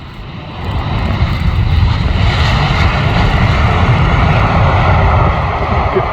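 Engine noise of a display aircraft flying overhead, growing louder about a second in and then holding steady and loud.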